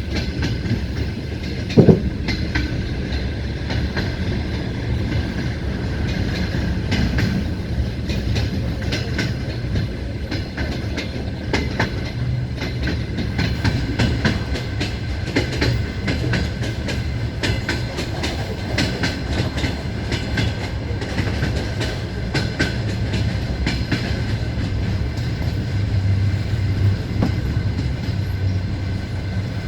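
Passenger train running along the track, heard from a carriage window: a steady rumble with the clickety-clack of wheels over rail joints, and one sudden loud knock about two seconds in.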